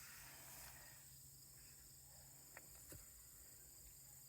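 Near silence: faint outdoor ambience, with a couple of faint ticks a little after halfway.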